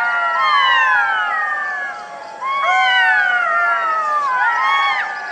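Golden jackals howling in chorus: several overlapping wailing calls that slide down in pitch. The chorus fades briefly about two seconds in and starts up again with new rising-and-falling yips.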